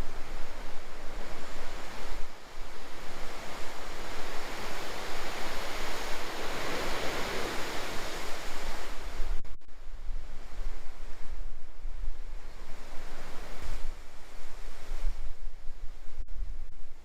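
Strong typhoon wind blowing in gusts, buffeting the microphone with a low rumble. The rushing swells to its loudest about six to nine seconds in.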